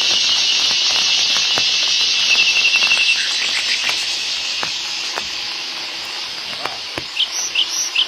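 Loud, high-pitched insect buzzing from a forest, fading away over the middle seconds. Near the end come short chirps repeated about three times a second.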